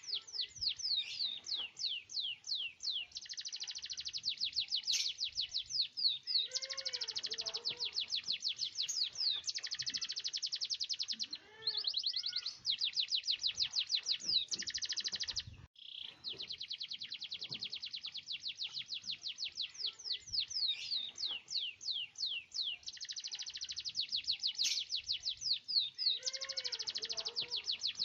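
Domestic canary singing long, rapid rolling trills: fast runs of repeated high notes, one phrase after another. The song breaks off briefly twice near the middle.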